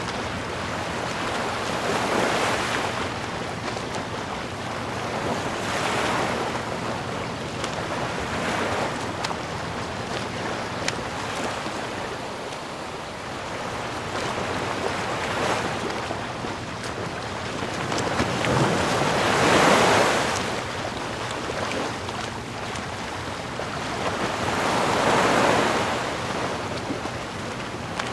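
Ocean waves breaking and washing on a shore, a steady rushing of surf that swells every few seconds, the biggest waves about two-thirds of the way through and near the end.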